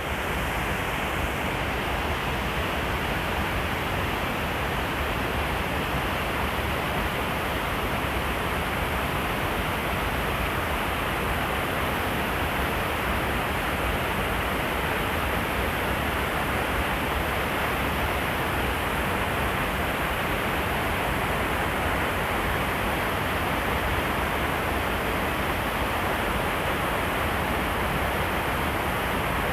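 River water rushing steadily: an even, unbroken roar of flowing water with no breaks or changes.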